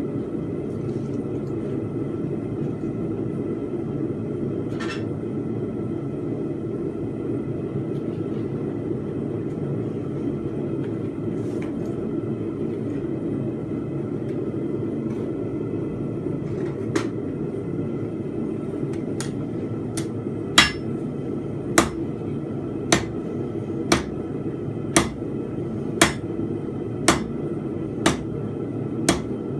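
Blacksmith's hammer striking steel on an anvil while forging a fence peg, a blow about once a second starting about two-thirds of the way in, over a steady low rumble.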